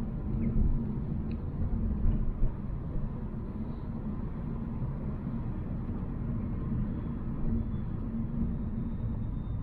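Volvo C70 being driven, giving a steady low rumble of engine and road noise.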